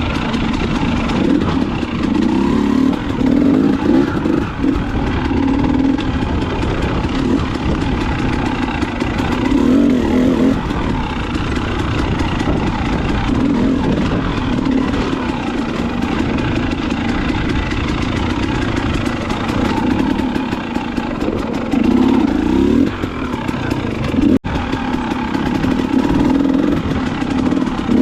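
Dirt bike engine running under way, revving up and down as it is ridden, with short rising surges. The sound cuts out for an instant about three-quarters of the way through.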